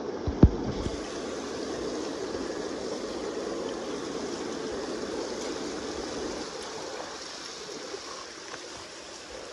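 Kenai River current rushing steadily past the bank, with a single sharp thump about half a second in.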